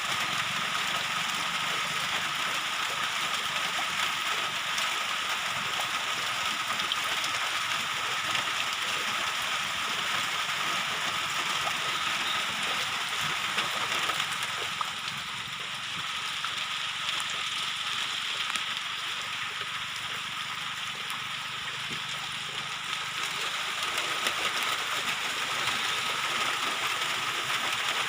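Steady rain falling, an even hiss, with a thin steady high tone running through it.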